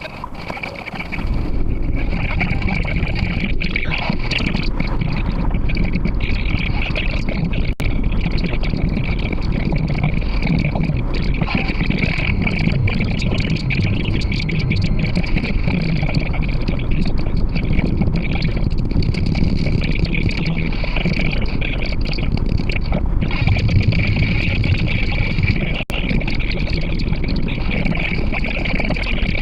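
Steady car driving noise, the road and wind rumble picked up by a dashcam inside the car, stepping up in level about a second in and briefly dropping out twice.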